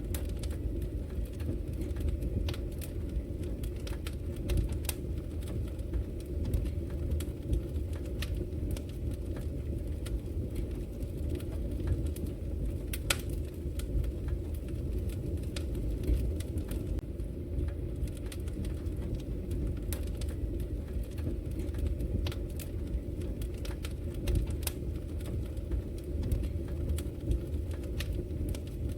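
Fireplace fire crackling, with sharp irregular pops and snaps over a steady low rumble.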